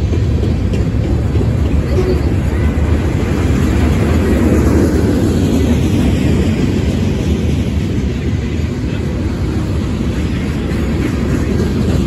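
Mixed freight train's cars rolling past at trackside: a steady, loud rumble of steel wheels on the rails.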